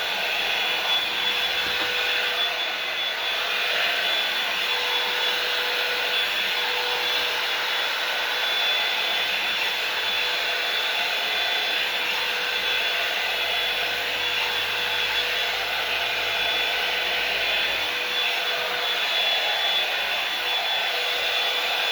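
Hair dryer running steadily: a constant rushing blow with a steady whine from its motor.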